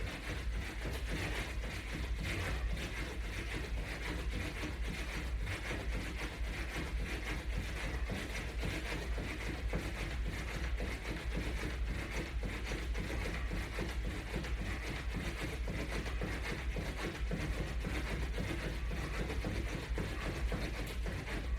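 Rapid, steady footfalls of a brisk jog in place against a resistance band, over a steady low hum.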